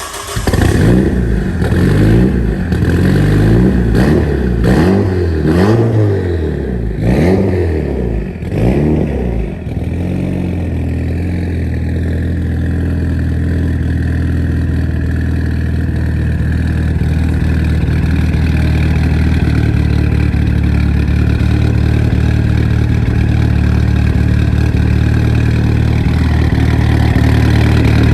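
Mitsubishi Lancer Evolution VII's turbocharged 2.0-litre four-cylinder, breathing through a full 3-inch Tomei Expreme titanium exhaust, is blipped in a quick run of revs that rise and fall. After about ten seconds it settles to a steady idle, which 266 cams give a lope.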